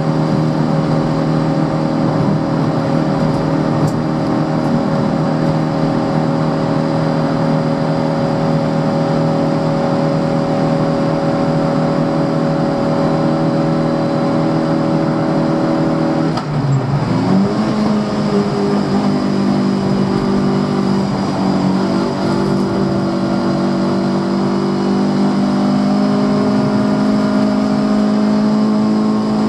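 Fiat Cinquecento 900's small four-cylinder engine running hard at steady high revs, heard from inside the car. About halfway through, the revs dip briefly and then settle at a higher steady pitch.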